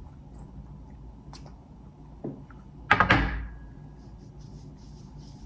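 Two light knocks, then about three seconds in one louder sharp thunk that rings briefly as it fades.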